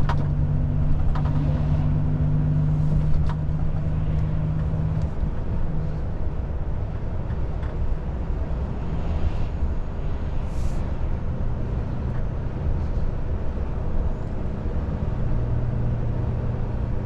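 Volvo FH 500 truck's diesel engine and road noise heard from inside the cab: a steady low drone whose engine tone eases off about five seconds in and returns lower near the end. A few short clicks sound in the first few seconds and a brief hiss about ten seconds in.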